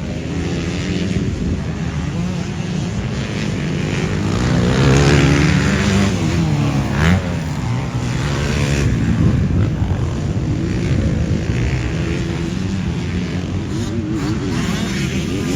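Motocross bike engine revving hard and easing off again and again, its pitch rising and falling, loudest about five seconds in.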